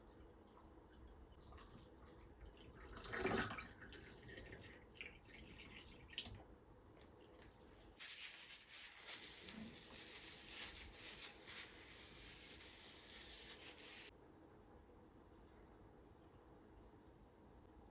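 Water running from a kitchen tap for about six seconds, starting and stopping abruptly, with a single brief knock a few seconds before it.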